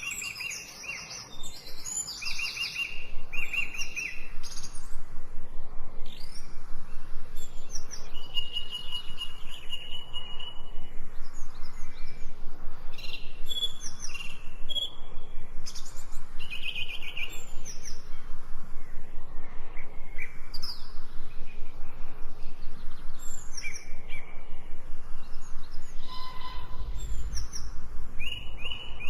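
Songbirds singing in a forest: repeated short chirps and trills from several birds, over a steady background hiss.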